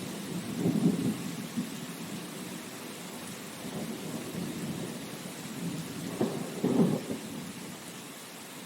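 Steady rain hiss with low thunder rumbles swelling up about a second in and again around six to seven seconds, then easing off.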